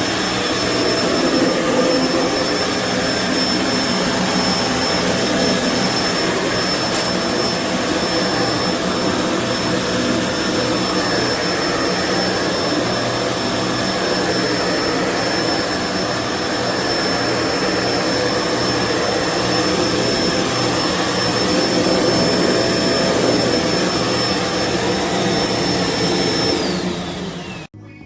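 Kenmore BU4050 bagged upright vacuum cleaner running steadily, with a thin high whine over its motor noise. Near the end the whine falls in pitch and the sound cuts off as the vacuum is switched off.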